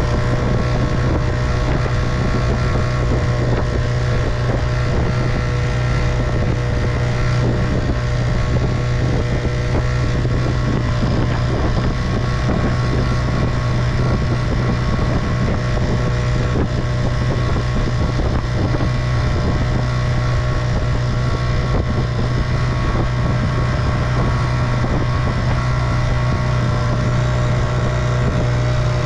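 1958 Evinrude 3 hp two-stroke outboard motor running at a steady speed, pushing a small boat, with no change in pitch.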